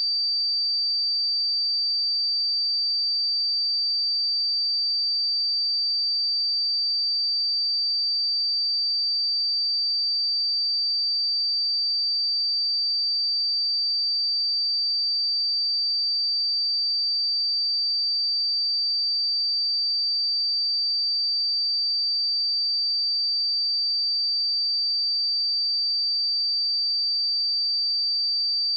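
Pure sine-wave test tone at 4646 Hz, a single steady high-pitched tone held at constant level.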